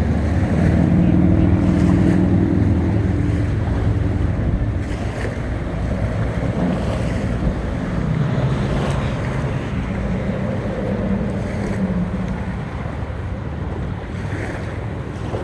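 A motorboat's engine drones low over the rush of waves. The drone is strongest in the first few seconds, then grows weaker and wavers. Wind buffets the microphone.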